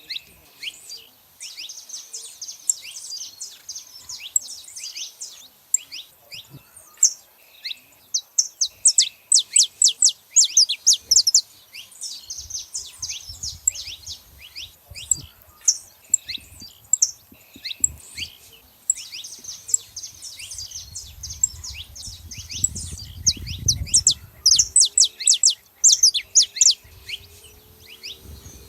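Saffron finches singing and chirping in quick, overlapping runs of sharp high notes, with a faint low rumble about two-thirds of the way in.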